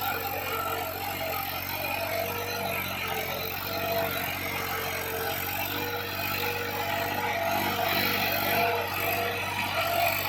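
Massey Ferguson 7235 DI tractor's diesel engine running steadily.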